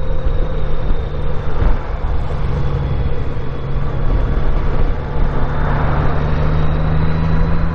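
Honda Gold Wing F6B's flat-six engine running steadily while the motorcycle is ridden, with wind and road noise over it; the engine note rises slightly near the end.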